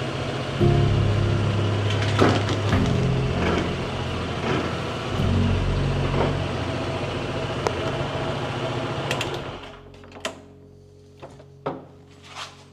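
Honda PCX scooter's single-cylinder engine running at low speed, then cut off about ten seconds in, followed by a few sharp clicks.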